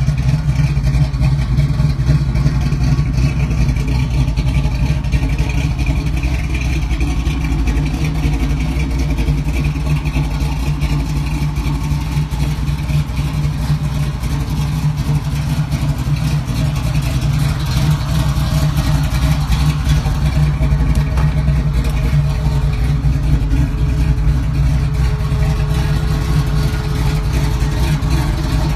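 1971 Chevrolet Camaro's engine running steadily at an even speed.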